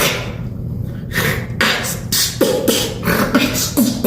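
Human beatboxing: a quick run of mouth-made drum hits, kicks and snare-like bursts, mixed with short low hummed notes.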